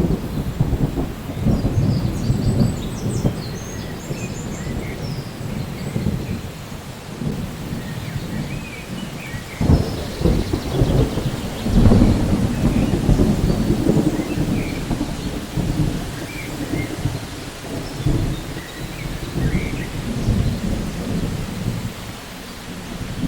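Thunder rumbling continuously over steady rain, with louder surges about ten and twelve seconds in.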